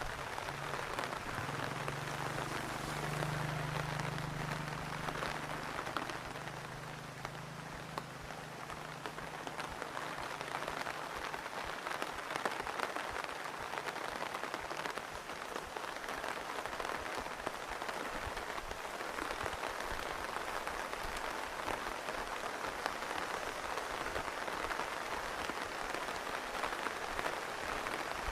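Steady rain falling, with many individual drops striking close by. A low hum is heard in the first few seconds and fades away.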